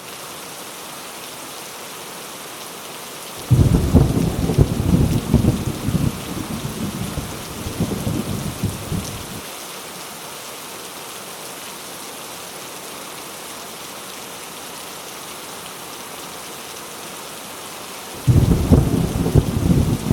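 Heavy rain falling steadily, with a roll of thunder that breaks in suddenly about three seconds in and rumbles for about six seconds before dying away, and another thunder roll starting near the end.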